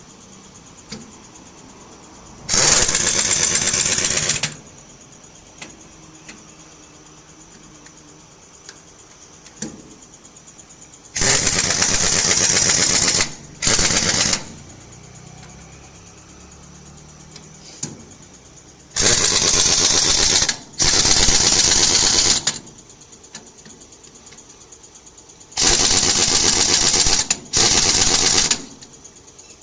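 A power tool running in short bursts of about one to two seconds with a fast rattle, started and stopped repeatedly, often in quick pairs.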